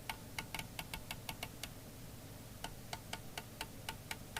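Rotel RVC240 CB radio's rotary channel selector clicking through its detents, a run of sharp clicks several a second with a short pause about halfway, over a faint steady low hum.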